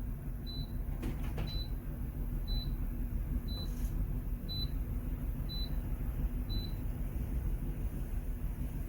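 A steady low mechanical hum with a short high-pitched beep repeating once a second, seven times, stopping about seven seconds in.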